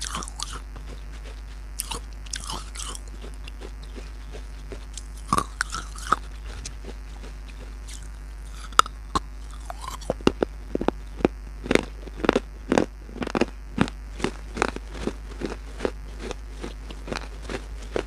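Biting and crunchy chewing of pieces of baked clay pot: a few separate crunching bites in the first half, then steady crisp chewing crunches about two to three a second.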